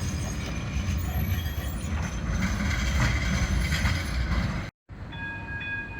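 Tram running along its track: a heavy steady rumble with faint high thin tones over it. It cuts off abruptly near the end, and a quieter steady whine follows.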